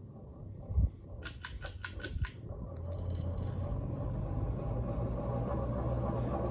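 FASCO Decorator ceiling fan: a quick run of about six clicks, then the motor settles into a steady low rumble that grows louder. It is the growl of a worn bushing in the bottom of the flywheel, which the owner takes for the thrust bushing, and it is worst on the higher speeds.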